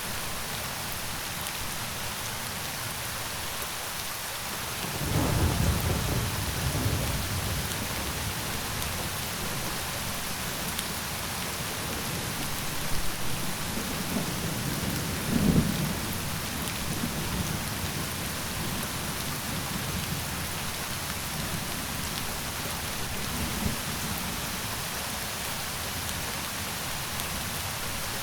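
Steady rain falling, with thunder rumbling twice: a long roll beginning about five seconds in and a second one peaking around the middle.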